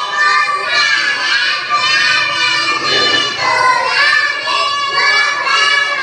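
A child's voice singing a song, the melody rising and falling with held notes.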